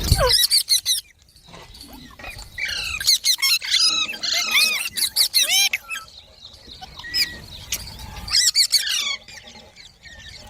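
Baby green parrot chirping: bouts of quick, high, arching chirps, one right at the start, a longer run in the middle and a shorter one near the end, with pauses between.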